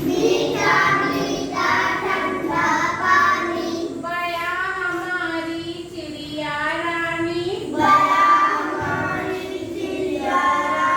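A child's voice singing a Hindi children's poem: sung phrases with long held notes that waver in pitch, separated by short breaths.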